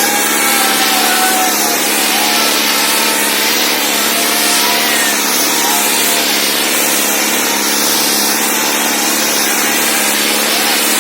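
Powertrac Euro 60 tractor engine running steadily, a loud even noise with a faint wavering whine over it.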